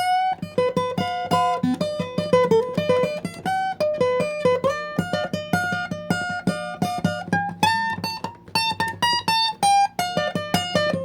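Acoustic guitar music: a quick, continuous run of plucked notes.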